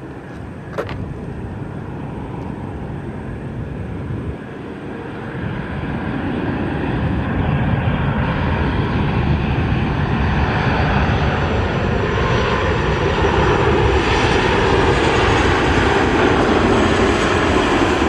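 Jet airliner engines, a broad rushing noise that swells from about five seconds in and stays loud to the end. A brief click about a second in.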